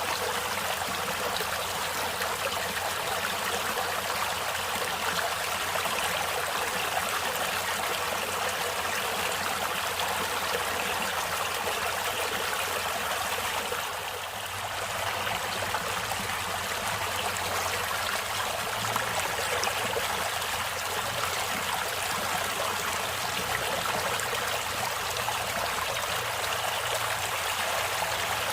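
Running water of a stream, a steady rushing with a trickling edge, dipping briefly about halfway through.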